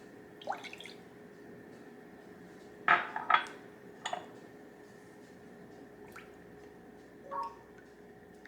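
Kitchen clatter of dishes and utensils: about six separate clinks and knocks, some briefly ringing, the loudest pair about three seconds in, over a faint steady hum.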